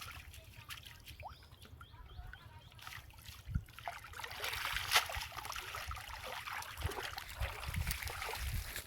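Water trickling and splashing, getting busier about four seconds in, with one sharper splash near the middle.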